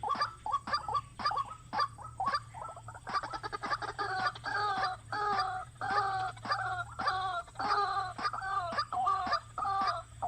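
A bird calling in a rapid series of short notes, about three a second, growing fuller from about three seconds in.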